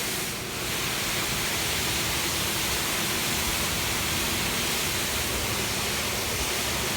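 Steady rushing hiss of a touchless automatic car wash running on the car ahead, heard from a waiting car.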